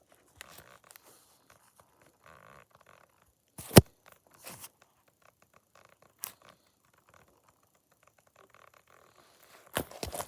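Mostly quiet, with one sharp knock about four seconds in, a fainter click about two seconds later, and a few faint scuffs.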